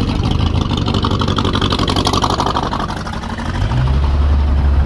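Car engine running as the car moves slowly, its pitch rising and then falling in the middle; a steady low drone comes in about three and a half seconds in.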